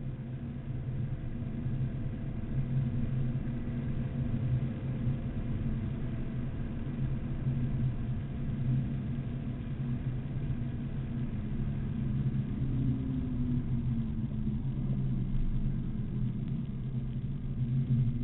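BMW Z4 M Coupe's inline-six engine running at track speed, heard from inside the cabin over road noise. The note holds mostly steady, with a brief shift in pitch about two-thirds of the way through.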